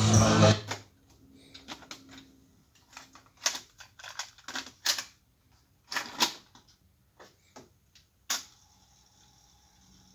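Music playback from a Hitachi Lo-D D-580 cassette deck stops about half a second in. A string of mechanical clicks and clunks follows from the deck's transport controls and mechanism. After a last sharp click near the end, a faint steady hiss with a thin hum remains.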